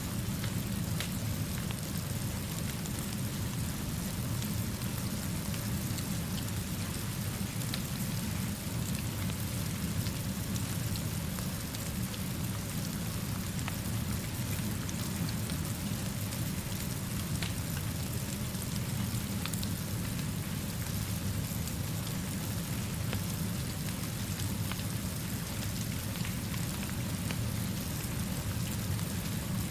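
Steady rainfall, an even hiss with faint scattered ticks of drops, over a continuous low rumble.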